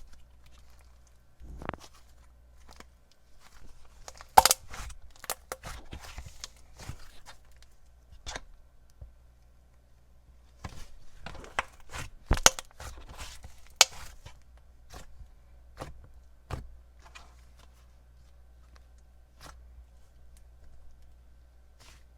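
Hands squishing, poking and pressing a clay-heavy butter slime, giving soft irregular clicks and crackles; the sharpest snaps come about four seconds in and again around twelve to fourteen seconds in.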